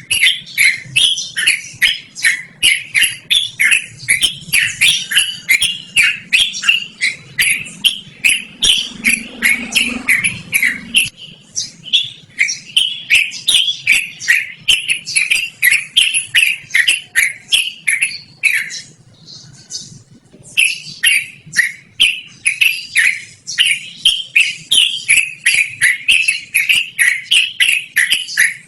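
Yellow-vented bulbul (trucukan) singing a long unbroken run of rapid, shrill repeated chirps, about three to four notes a second. The run breaks off for about two seconds roughly two-thirds of the way through, then resumes.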